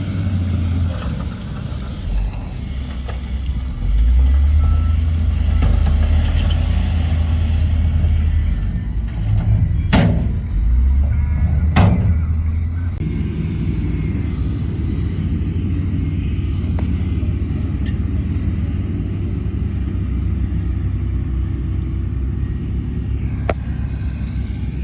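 Heavy diesel construction machinery running steadily, louder from about four seconds in. Two sharp bangs come near the middle, about two seconds apart.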